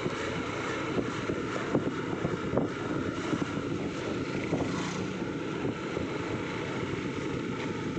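Automatic scooter being ridden: wind rushing over the microphone over the scooter's engine and tyre noise, with a few short knocks.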